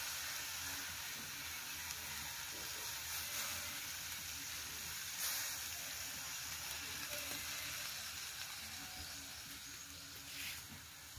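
Chicken pieces sizzling in a metal pan over a wood fire, just after soy sauce and vinegar have been poured in. The sizzle is steady and slowly dies down.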